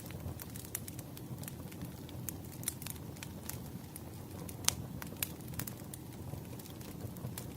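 Wood fire crackling: irregular sharp pops and snaps over a low, steady rumble, with one louder pop a little past halfway.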